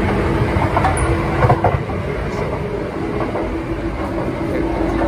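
Running noise of a Kintetsu 30000 series 'Vista EX' electric limited express, heard from inside the car while under way: a steady rumble of wheels on rail. A steady hum joins it about a second in.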